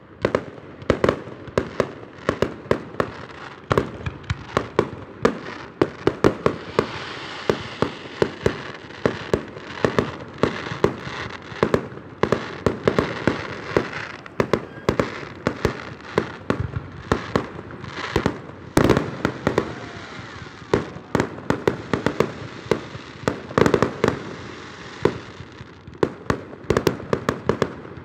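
Aerial fireworks shells bursting in quick succession: a steady run of sharp bangs, often several a second, with crackling in between. One bang about two-thirds of the way through is louder than the rest.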